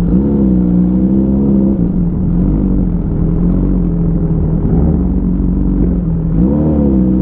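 Motorcycle engine running through an Avionic aftermarket exhaust, with the engine note rising and falling twice, at the start and again near the end, as the throttle is opened and eased off.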